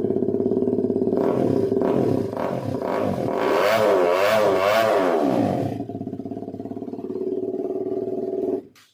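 KTM RC motorcycle engine through a modified exhaust: idling, then blipped a few times, then revved up and down several times over a couple of seconds before settling back to idle. The sound stops suddenly near the end.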